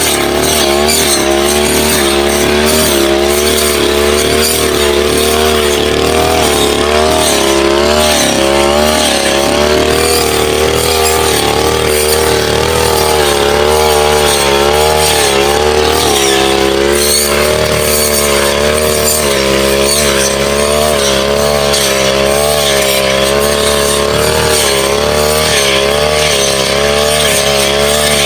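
Brush cutter engine running at high revs, its pitch wavering up and down continually as the blade cuts through woody saplings.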